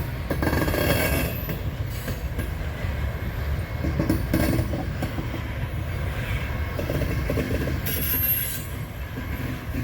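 Railroad freight cars rolling past: a steady low rumble with high-pitched wheel squeal about a second in and again near the end, and a quick run of wheel clicks over rail joints partway through.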